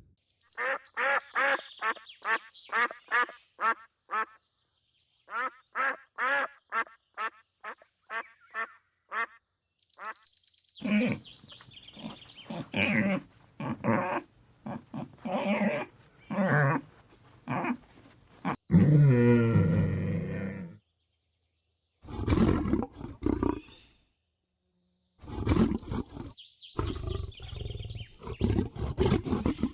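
A series of animal calls from several kinds of animal in turn. It opens with two runs of short calls repeated about three times a second, then irregular calls, a loud low call about two-thirds of the way in, and more bouts of calls separated by short pauses.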